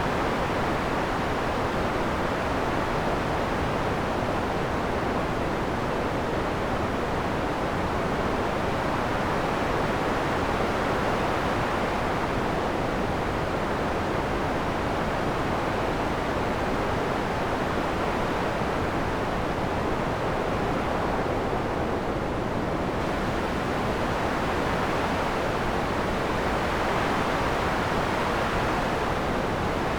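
Synthesized wind made from filtered noise in Max (Cycling '74): a steady rush whose brightness slowly swells and fades, turning duller about two-thirds of the way through, then brighter again near the end.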